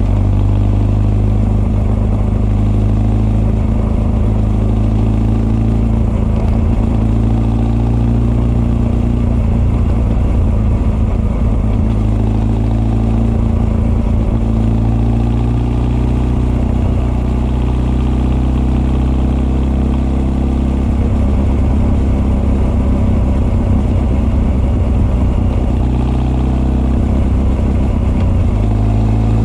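Honda CB1300 SF's inline-four, breathing through Keihin FCR41 carburettors and an r's gear Wyvern full exhaust, running at fairly steady, low revs, with carburettor intake and exhaust heard together. Its pitch shifts a few times, about two-thirds of the way in and again near the end, as the throttle changes.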